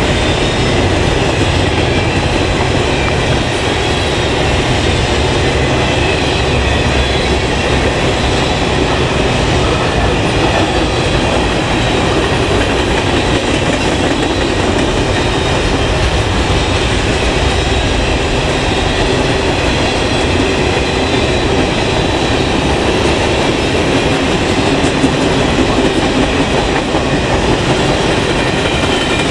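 Train cars rolling past at steady speed: a continuous loud rumble and clatter of steel wheels on the rails.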